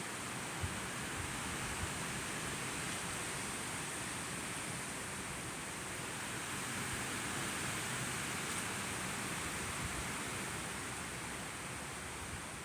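Steady rain falling in a thunderstorm, an even hiss with a few faint low taps.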